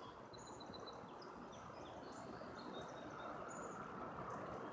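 Several small birds chirping in short, high notes, some in quick runs, over a steady outdoor hiss.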